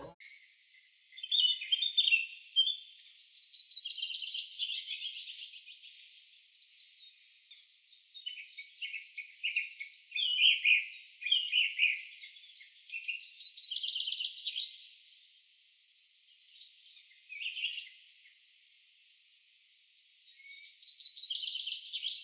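Birds singing: a dense run of quick chirps and trills from several birds. The sound is thin and high, with nothing low in it, and it dips briefly about a second in and again around sixteen seconds in.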